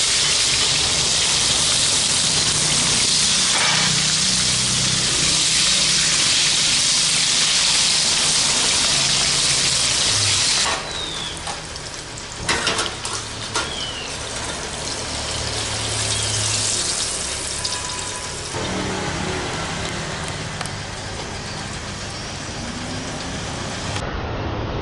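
Tomatoes and chillies sizzling loudly in hot oil in a frying pan for sambal. About ten seconds in the sizzle drops off sharply as the pan is lifted from the gas burner. There are a few clinks of the pan about two seconds later, and a fainter sizzle runs on after.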